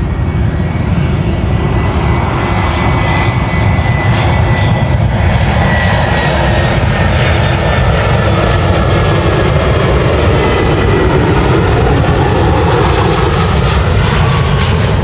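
Airliner jet engines running loud and steady, a dense roar with faint whining tones that slowly drift in pitch as the aircraft goes by.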